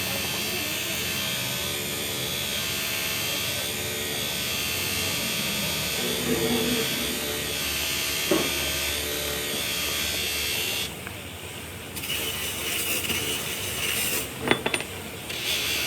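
Workshop machinery running steadily with a high whine. The noise drops away about eleven seconds in, and a sharp knock comes near the end.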